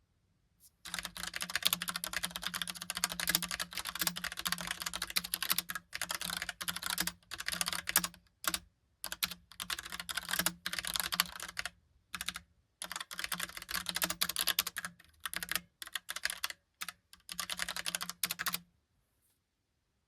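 Fast typing on a Logitech Pop Keys mechanical keyboard with typewriter-style keys: quick runs of key clicks broken by short pauses. The typing stops about a second and a half before the end.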